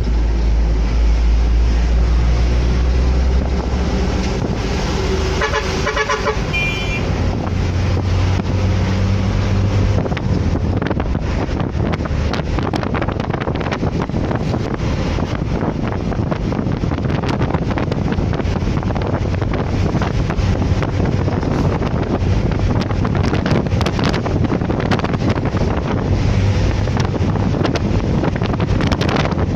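Road traffic heard on the move, with wind on the microphone and a steady low engine hum. A vehicle horn sounds about six seconds in.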